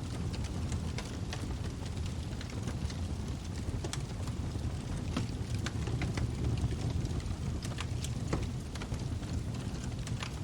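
Log fire burning in a fireplace: a steady low rumble of flames with frequent irregular sharp crackles and pops from the burning wood.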